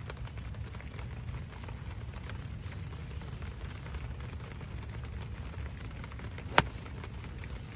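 Steady low rumble in pouring rain, with one sharp crack of a golf club striking the ball about six and a half seconds in.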